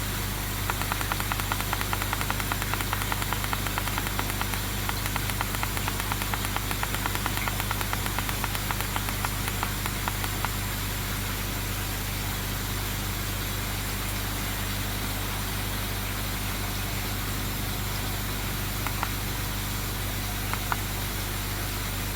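Steady electric hum of the koi pond's pump and filter equipment. For the first ten seconds or so a fast, fine patter runs over it, then stops, leaving only the hum.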